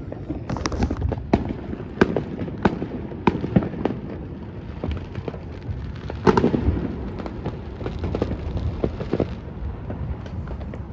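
Many distant and nearby fireworks going off at once: irregular sharp bangs and crackles over a continuous low rumble of booms, with a louder burst of reports about six seconds in.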